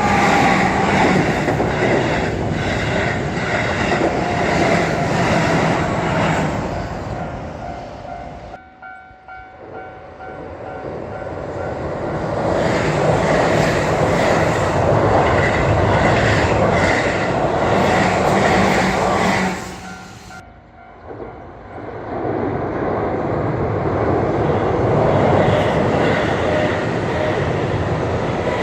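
Keihan electric trains passing close by, wheels clattering over the rails. The noise drops away about nine seconds in and again about twenty seconds in, and each time builds back up as another train runs through.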